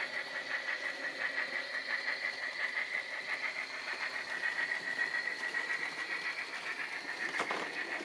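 Model steam locomotive of the Bavarian Gt 2×4/4 running on a model railroad: a steady high whine with a fast, even pulsing, and a single sharp click near the end.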